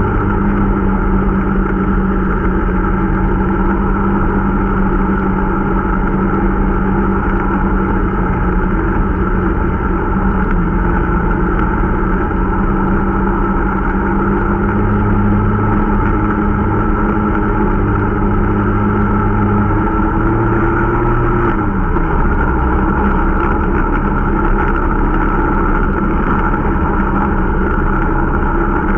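Irbis Dingo T125 snowmobile's small single-cylinder engine running steadily under way, a new engine being run in. About three-quarters of the way through, the engine note rises briefly and then falls to a lower pitch.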